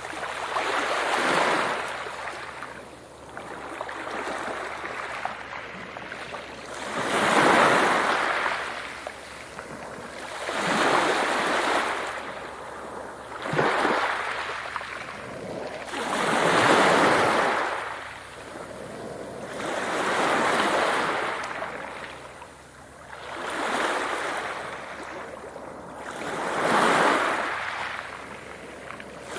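Ocean waves washing onto a shore, each one swelling and fading about every three seconds.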